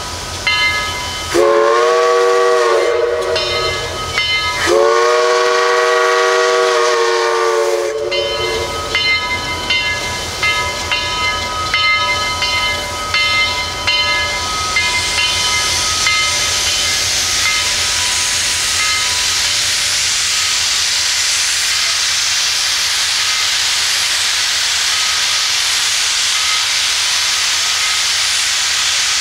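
Southern 4501's steam whistle sounds two blasts, a shorter one and then a longer one, each a chord of several notes that bends up as it opens. Two blasts is the signal to proceed. After the blasts the locomotive vents steam in a steady hiss that grows louder.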